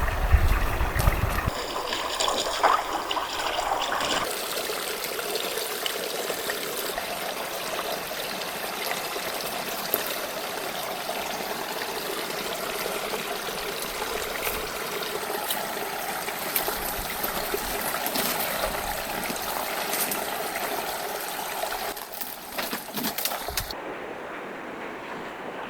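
Mountain river flowing: a steady rush of water. There is a brief low rumble in the first second or so, and the sound turns abruptly duller near the end.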